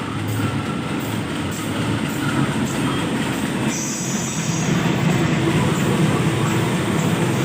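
Train running past on the rails: a steady rumble of wheels with repeated clacks over the rail joints, and a brief high wheel squeal about four seconds in.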